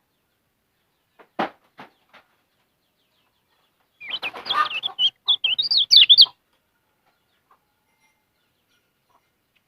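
A caged kecial kuning songbird giving a quick burst of high, rapidly warbling chirps lasting about two seconds, with rustling beneath. A sharp knock and a couple of lighter taps come a couple of seconds before it.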